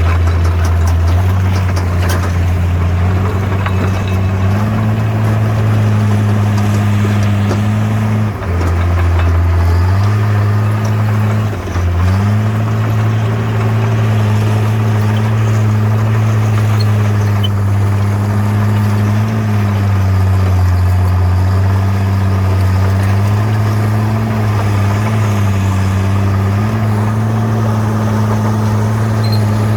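Bulldozer's heavy diesel engine running steadily under load, its pitch rising and falling as the load changes. It dips briefly twice, about eight and twelve seconds in.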